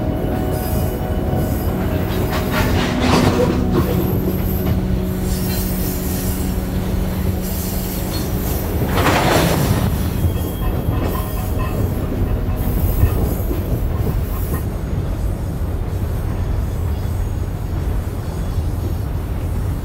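Long iron-ore freight train running, heard from on top of an ore wagon: a steady heavy rumble with drawn-out metallic squealing from the wheels. A louder grinding screech swells up about halfway through.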